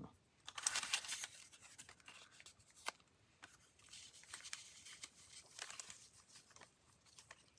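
Paper pieces being handled and shuffled on a work surface: faint rustling in short bursts, loudest about a second in, with a few light taps.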